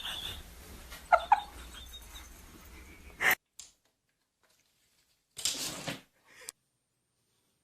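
Two short, high cries from a pet about a second in, over faint room noise, then a sharp click about three seconds in. After the click the sound is almost silent, broken only by a brief burst of noise.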